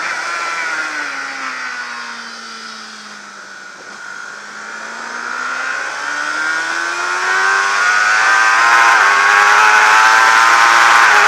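600cc supersport motorcycle engine heard from on board over wind rush. The revs and level fall away for about four seconds as the bike slows into a corner, then climb steadily as it accelerates out. A gear change comes near the end, after which the engine runs high and loud.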